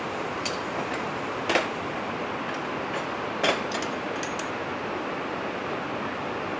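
Narrow-gauge railway carriage running along the track: a steady rolling rush with a few sharp clicks and knocks, the loudest about a second and a half in and again past three seconds.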